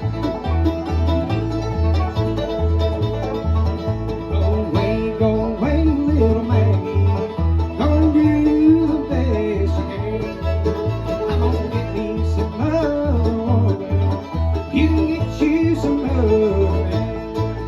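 Acoustic string band jamming on a bluegrass tune: plucked strings over a steady, even alternating bass, with a melody line sliding and bending above.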